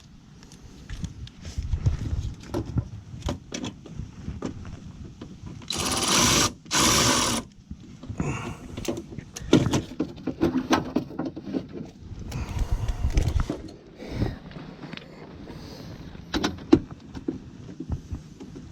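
Hand-tool work on metal hardware: scattered clicks, knocks and clatter of tools and bolts, with two loud, brief bursts of noise about six and seven seconds in.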